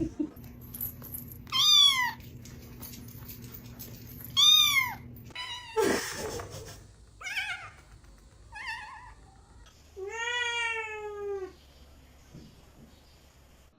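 A cat meowing, about six separate meows with an arching, falling pitch; the last, about ten seconds in, is longer and lower than the first ones.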